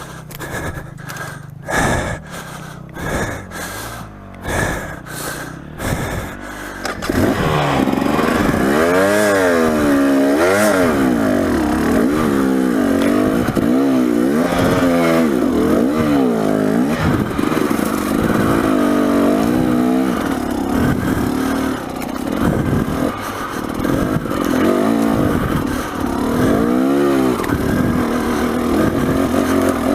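Dirt bike engine, with uneven bursts of revs for the first several seconds. From about seven seconds in it runs steadily, the revs rising and falling over and over as the bike is ridden under load.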